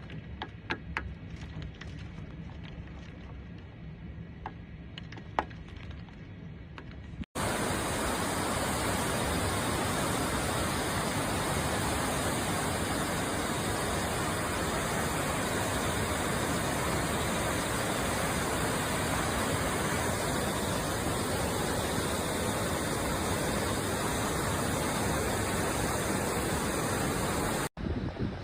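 Typhoon storm noise: muffled rushing with scattered sharp clicks, then, after an abrupt cut about seven seconds in, a loud, steady rushing hiss like a torrent or driving rain that holds until another abrupt cut near the end.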